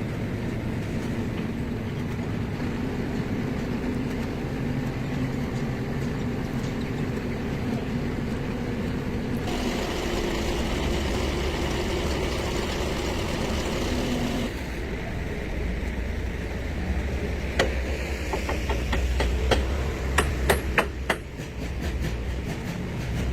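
Engine running steadily, its sound changing for a few seconds around the middle. A low rumble follows, with a run of sharp metallic knocks like hammer strikes near the end.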